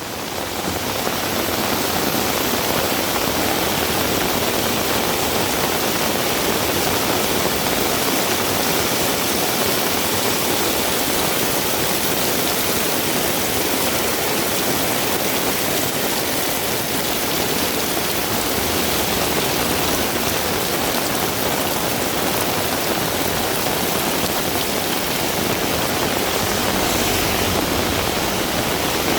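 Heavy rain falling in a steady, dense downpour, fading in over the first second and then holding even.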